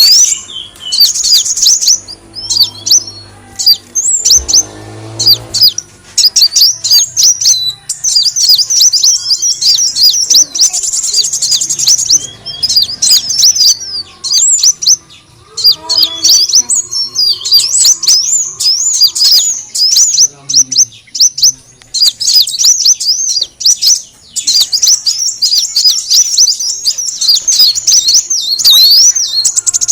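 Kolibri wulung sunbird calling, as used in a bird-lure recording: rapid, high-pitched chirps and twitters in dense runs broken by a few short pauses.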